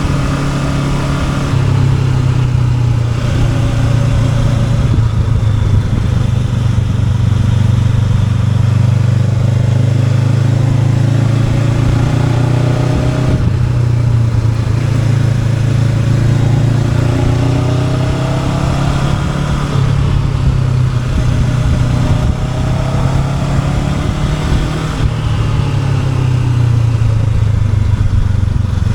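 Honda NX500's parallel-twin engine running under way on the road, the revs rising and falling and the pitch dropping in steps several times as the gears change.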